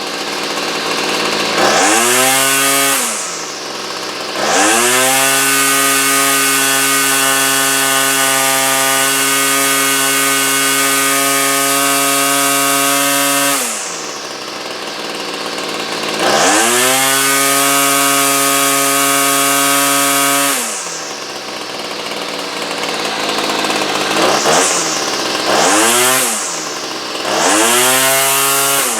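Small two-stroke engine revved to full throttle and held there for several seconds at a time, dropping back to idle and climbing again several times, with quick blips of the throttle near the end. This is the engine being run up while its carburetor is tuned.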